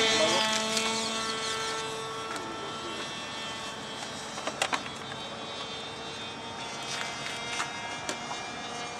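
Radio-controlled model airplane's motor running as a high whine that is loudest at first and drops slightly in pitch as the plane flies away, then continues steady and fainter. A few short clicks come around the middle and again later.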